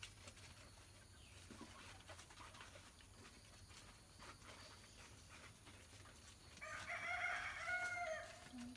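Rooster crowing once near the end, a single drawn-out call of about a second and a half, after several seconds of faint background.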